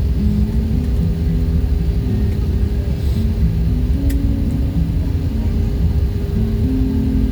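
Airbus A319 airliner with a steady loud low rumble and a constant engine hum, with a single sharp click about four seconds in.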